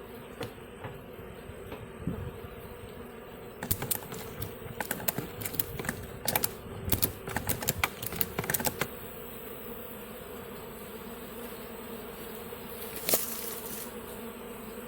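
Honeybee swarm humming steadily as the bees march into the hive box and fan. A run of sharp clicks and taps comes about four to nine seconds in, with one louder tap near the end.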